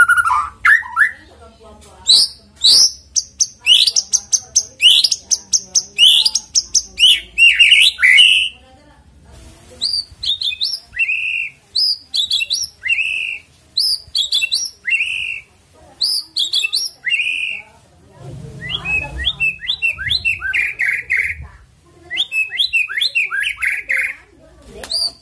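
White-rumped shama (murai batu) singing loudly: for the first eight seconds a fast run of sharp whistled notes that sweep up high, then a phrase repeated about once a second, a high note followed by a lower slurred one, with brief pauses about nine and eighteen seconds in.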